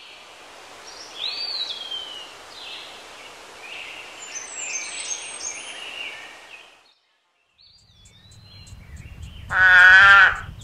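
Scattered whistled bird calls, one falling in pitch, over a steady outdoor hiss. After a brief gap, a toad gives one loud call of about a second near the end, its pitch slightly wavering.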